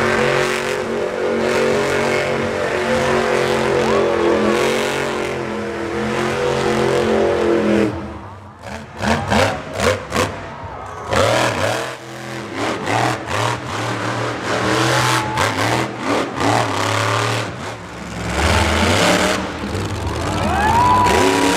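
Monster truck engine running hard at high revs, then a stretch of rapid revving with several sharp knocks about 8 to 12 seconds in, before the engine settles into steady running again.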